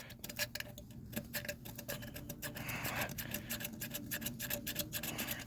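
Utility knife blade scraping old gasket material off a tractor engine's exhaust ports, a run of quick, irregular scratches and ticks, cleaning the faces for new gaskets.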